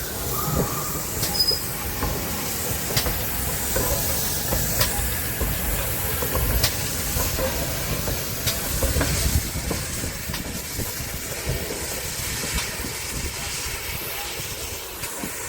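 Steam locomotive hissing steam as it moves slowly, with faint regular clicks about every two seconds.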